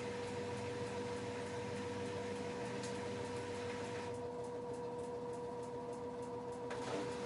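LG F10A8HDS5 front-loading washing machine running mid-cycle: a steady hum with a constant whine over a hiss. The hiss thins out about four seconds in and comes back with a click near the end.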